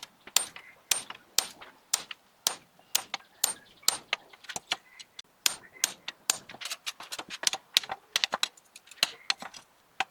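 Light metal-on-metal taps and clicks with a short bright ring. They come about two a second and evenly spaced at first, then faster and more irregular after about six seconds.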